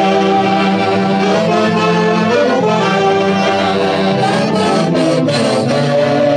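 Saxophones and brass of a festival orchestra playing a melody in held notes, with a few cymbal-like strokes in the second half.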